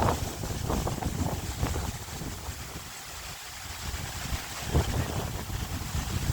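Strong, gusty wind through a bamboo grove, the leaves rustling and the wind buffeting the microphone with a low rumble. The gust eases about halfway through and builds again near the end.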